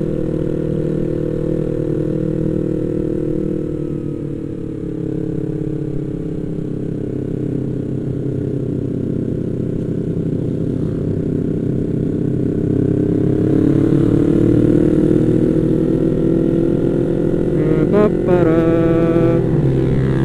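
Yamaha MT-25 parallel-twin motorcycle engine running under way. It eases off about four seconds in, then pulls up through the revs and holds a higher note for the last few seconds. A brief wavering higher-pitched sound cuts in near the end.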